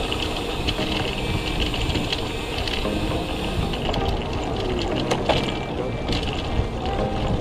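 Wind and road noise on an action camera's microphone while riding a bicycle, a steady rumbling rush, with faint background music underneath.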